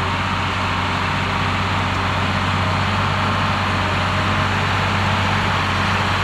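Diesel engine of a piece of heavy earthmoving equipment running steadily, with a constant low hum.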